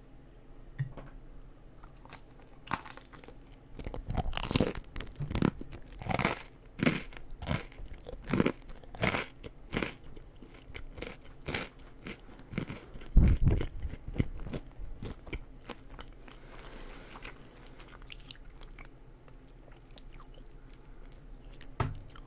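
Close-miked eating: a person biting and chewing crisp food, with a run of sharp, crunchy bites and the loudest crunch about two-thirds of the way through, then softer, quieter chewing.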